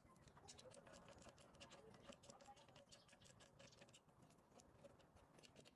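Near silence with many faint, rapid, irregular light clicks and ticks.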